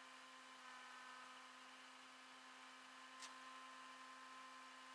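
Near silence: a faint steady hum, with one faint click about three seconds in.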